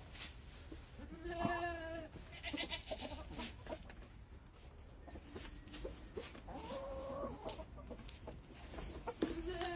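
Backyard chickens making drawn-out calls, one about a second in and another around seven seconds, with scattered clicks and rustles as they scratch in fresh straw.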